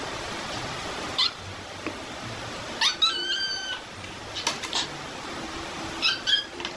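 A kitten mewing in short, high-pitched calls, a longer one about three seconds in and a couple more near the end, over a steady hiss.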